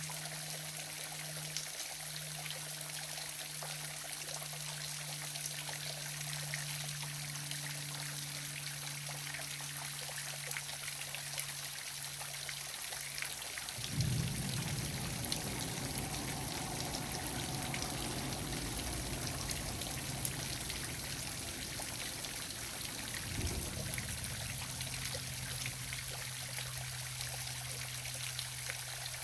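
Waterfall splashing and trickling steadily, under a faint steady low hum. About halfway in a sudden low rumble rises over the water and eases off some nine seconds later.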